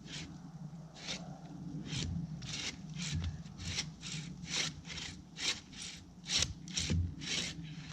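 A saw cutting through a tree trunk: a run of rasping strokes that come faster, up to about two a second.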